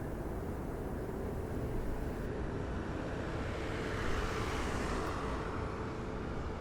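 Steady low outdoor rumble with a faint hum, and a distant jet airliner's hiss swelling about four seconds in and then fading.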